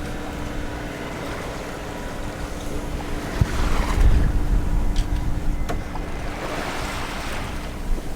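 Sea water rushing and splashing along a sailboat's hull as it moves under way, swelling twice, with wind buffeting the microphone and a faint steady hum underneath.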